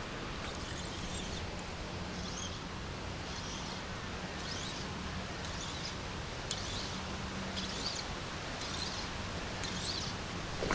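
A bird singing a short phrase over and over, about once a second, above steady outdoor background noise.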